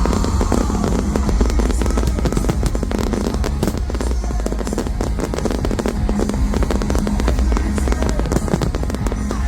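Fireworks show: loud soundtrack music over a public-address system, with fireworks banging and crackling continuously throughout.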